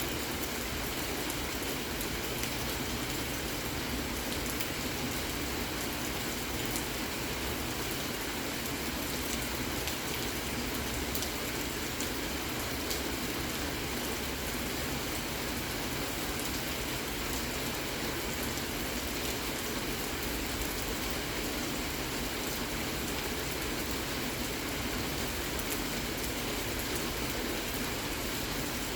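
Steady rain falling: an even hiss dotted with many fine drop ticks.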